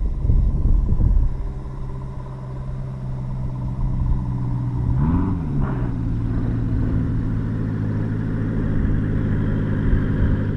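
Light aircraft's piston engine running steadily, its pitch briefly rising and falling about five seconds in.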